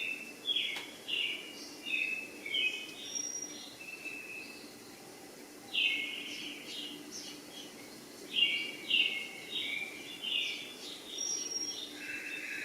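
Birds chirping: irregular runs of short, high chirps, several in quick succession, over a faint steady background.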